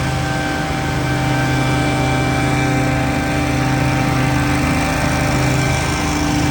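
Small gas engine of outdoor power equipment running steadily at constant speed, with a steady drone and whine.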